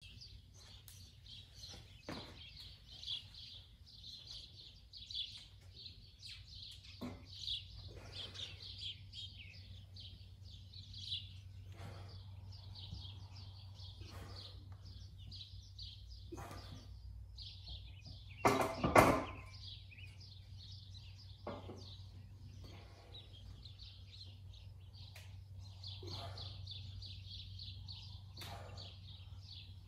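Birds chirping steadily under a low steady hum, with scattered faint knocks. About two-thirds of the way through there is a brief, louder clatter of knocks.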